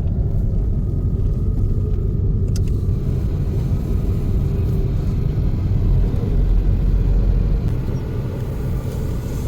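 Steady low rumble of a moving vehicle, with one sharp click about two and a half seconds in.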